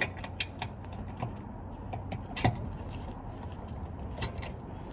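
Metal hand tools clinking and clicking as they are handled and fitted together for taking the truck's wheels off, over a steady low hum.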